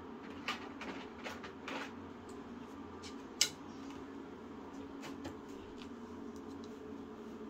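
Scattered small clicks and clatter of hard plastic and metal parts being handled and set down, with one sharper click about three and a half seconds in. A steady low hum runs underneath.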